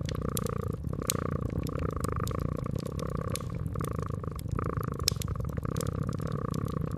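A domestic cat purring steadily, with the scattered sharp crackles of a wood fire over it.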